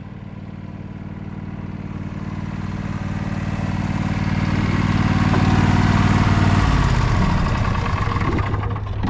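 Sabre by John Deere lawn tractor engine running, growing steadily louder as it nears. About two-thirds of the way in, the engine note drops in pitch.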